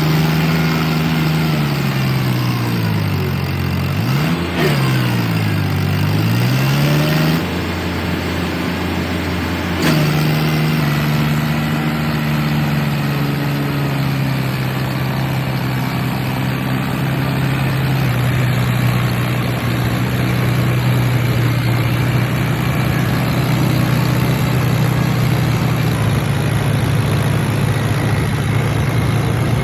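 Farmtrac tractor's diesel engine pulling a trolley. It revs up and down twice in the first several seconds, then settles to a steady pitch.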